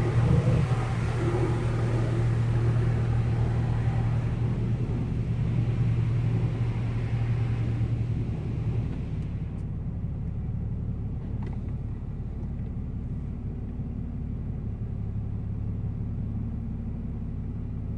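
Automatic car wash running: a steady low rumble with a hiss over it. The hiss cuts off about halfway through, leaving only the low rumble.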